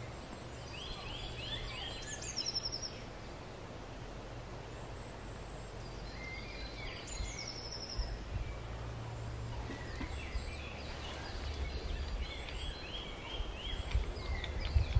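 A songbird singing short trilled phrases, about four times, over a steady low background rumble.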